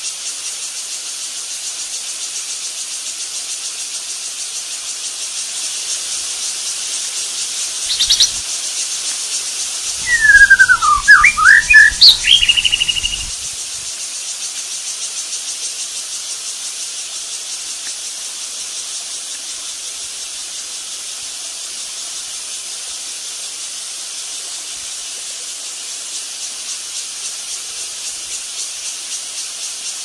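A steady, high-pitched insect chorus buzzes throughout. About ten seconds in, a loud burst of rapid, sweeping bird calls lasts roughly three seconds; a short call comes a couple of seconds before it.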